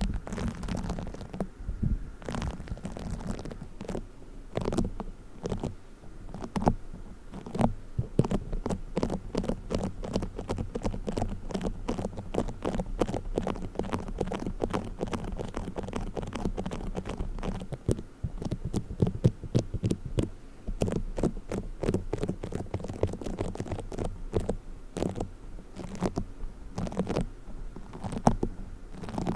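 Play foam squished and kneaded close to the microphone: a continuous run of fast, sticky crackles and small pops.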